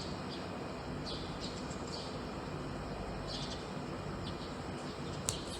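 Small birds chirping: short, high chirps in scattered clusters over a steady low background rumble.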